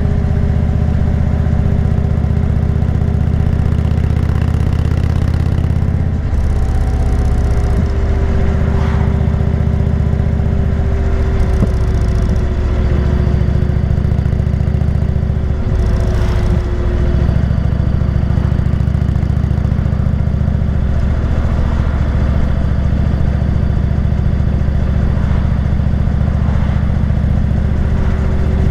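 Indian motorcycle's V-twin engine running under way on a ride, its steady low note shifting briefly twice, about six and sixteen seconds in.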